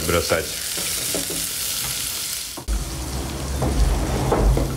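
Onions and garlic sizzling steadily as they fry in hot oil in a pan. There is a sudden brief break about two and a half seconds in, after which a low rumble sits under the sizzle.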